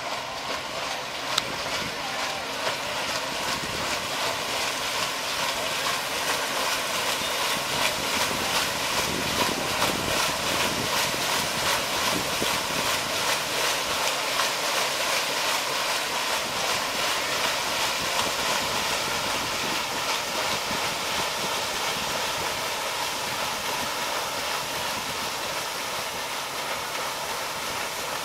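Paddle steamer under way: its paddle wheels and steam machinery give a steady rhythmic beat over a churning hiss of water. It swells a little as the boat comes closest and eases off near the end.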